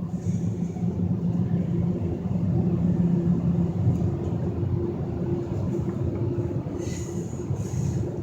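Steady low rumble heard from inside a car in a Ryko SoftGloss XS2 automatic car wash, the car's idling and the wash machinery blending into one drone, with two short hisses near the end.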